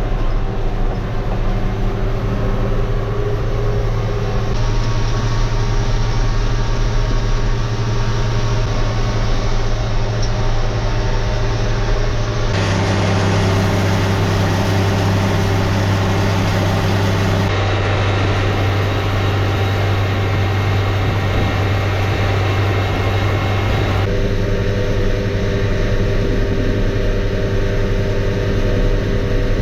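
An engine running steadily with a deep, even hum. Its tone shifts abruptly three times, at about 12, 17 and 24 seconds in.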